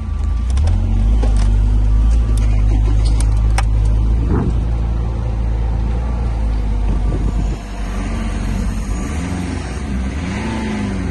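BMW E46 320d's 2.0-litre four-cylinder turbodiesel (204D4) running on test, its revs rising and falling a few times in the second half, with a few sharp clicks in the first few seconds.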